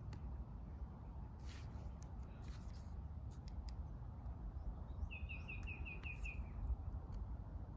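A small bird gives a quick run of about eight repeated high chirps about five seconds in, over a steady low outdoor rumble. Soft scratches and light taps, likely pen strokes of coloring on paper, come in the first half.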